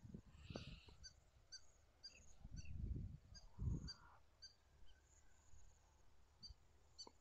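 Near silence with scattered faint, high chirps of small birds in the field, and a few low, muffled rumbles on the microphone, the loudest about three and four seconds in.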